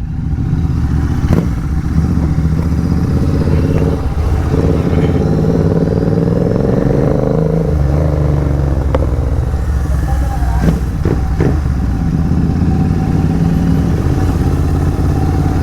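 Royal Enfield Continental GT 650's parallel-twin engine running at road speed through an aftermarket AEW megaphone exhaust, its pitch climbing gradually a few seconds in and dropping back about eight seconds in. A few short clicks come through near the start and again later.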